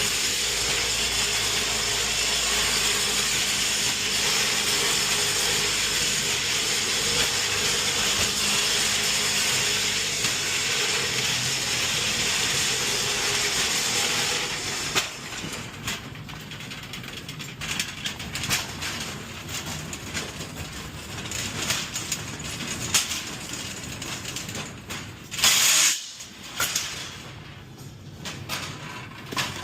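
Unloading loaded delivery carts from a box truck: a steady hissing rumble for about the first half, then the rattling and clicking of cart wheels and metal frames, with one sharp clatter near the end.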